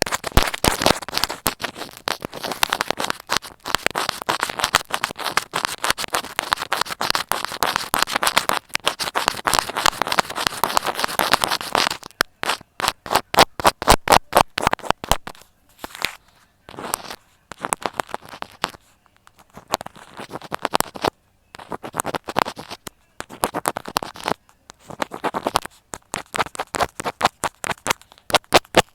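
A needle being pushed into and worked through a material, making close-up scratchy, crackling ASMR sounds. The crackling is dense and continuous for the first dozen seconds, then comes in shorter bursts with pauses between them.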